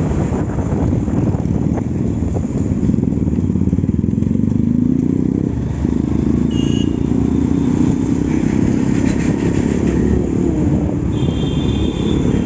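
Motorcycle engine running on the move, its pitch rising about four seconds in and falling sharply just before six seconds.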